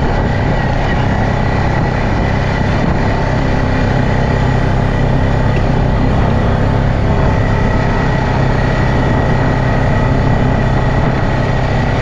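Quad bike engine running steadily on the move, freshly fitted with a new carburettor.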